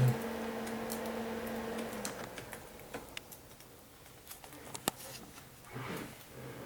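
Scattered light clicks and taps, with one sharper click about five seconds in, over a steady hum that fades out about two seconds in.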